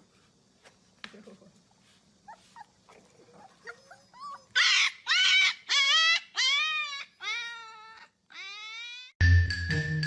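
Puppy howling: a few soft squeaks, then a run of about seven loud, high, drawn-out cries, each pitched lower than the last. Music with mallet percussion comes in near the end.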